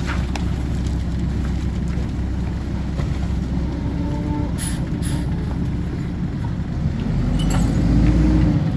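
Mack LE garbage truck's diesel engine running with a steady low rumble, revving up in swells near the end. Two short hisses come about halfway through.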